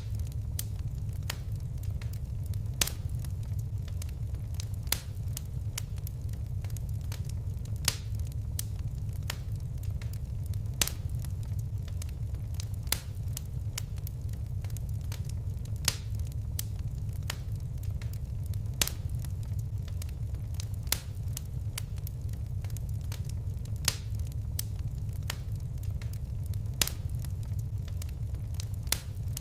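Fire crackling: sharp pops every second or two over a steady low rumble of the flames.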